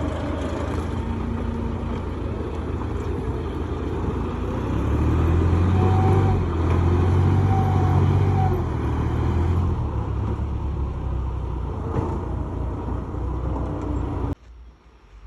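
Nissan five-ton dump truck's engine running hard as the truck, stuck in mud, tries to drive out. The engine gets louder about four seconds in, holds for about five seconds, then eases off. The sound cuts off abruptly near the end.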